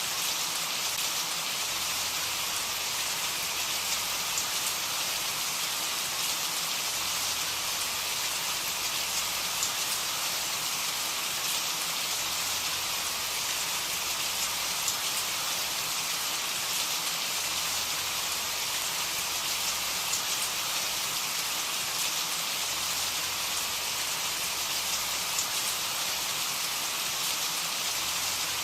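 Steady rain falling, a constant hiss with scattered faint drop ticks.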